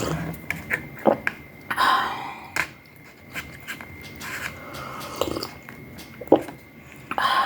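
Close-miked eating sounds: a person chewing, with scattered wet mouth clicks and a few short breathy bursts.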